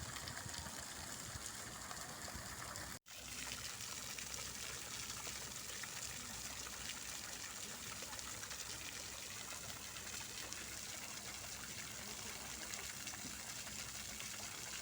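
Fountain water splashing and trickling steadily. The sound cuts out for an instant about three seconds in, then comes straight back.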